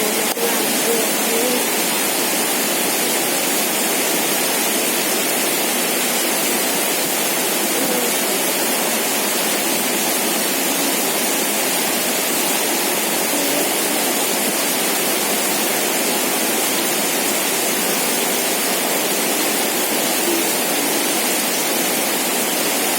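Heavy rain pouring, a steady even downpour hiss.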